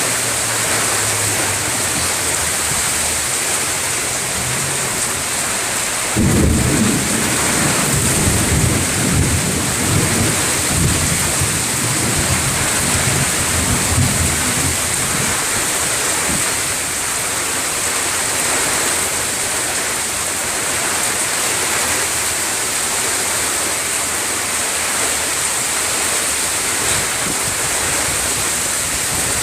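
Heavy rain pouring steadily in a thunderstorm. About six seconds in, a loud low thunder rumble breaks out and rolls on for around eight seconds before fading back under the rain.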